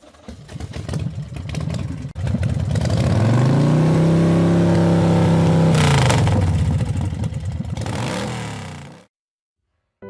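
Yamaha VMAX V4 motorcycle engine. It starts with a rough clatter, then revs up about three seconds in, holds high revs for a few seconds, and drops back before cutting off near the end.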